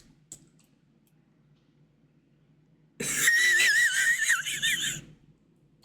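A pause of near silence with a faint low hum. About three seconds in, a person makes a high, wavering, wheezy vocal noise lasting about two seconds.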